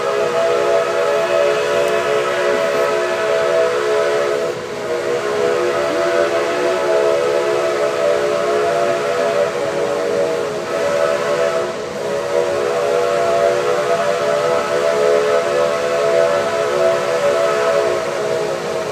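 Steam locomotive's chime whistle blowing one long, steady chord of several tones, dipping briefly twice.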